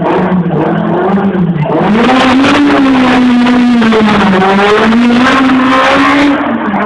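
Rally car engine revving hard as the car accelerates past and on up a steep street. It grows much louder about two seconds in, and its note rises, drops and rises again with the throttle and gear changes.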